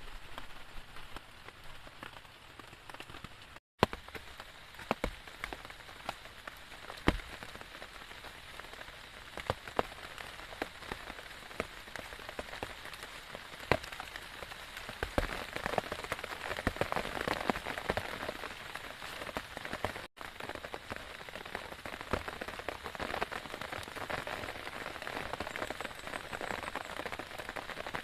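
Rain falling steadily, with many separate heavy drops tapping sharply on a nearby surface; the rain swells heavier about halfway through. The sound cuts out for an instant twice.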